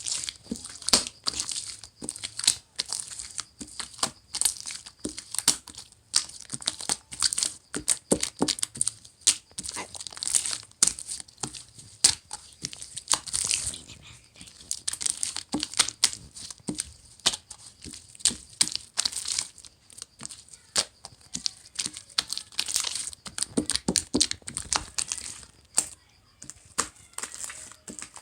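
Rapid, irregular crinkling and crackling with many sharp clicks, like something being crumpled or torn.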